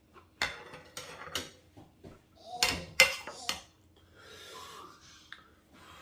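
Eating utensils knocking and clinking against the pot and bowl of ramen: several sharp clinks, the loudest about three seconds in, followed by softer eating sounds.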